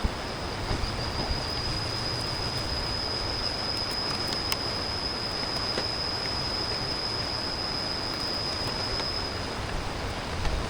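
A big river rushing steadily. Over it an insect keeps up a thin, steady, high-pitched buzz that stops about a second before the end.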